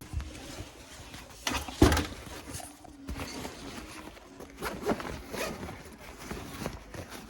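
Handling noises: short zip-like rasping strokes and rustling, with a couple of sharp knocks a little under two seconds in.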